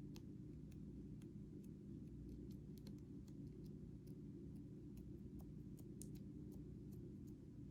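Slime being worked by hand, giving faint, irregular small clicks and pops over a steady low hum.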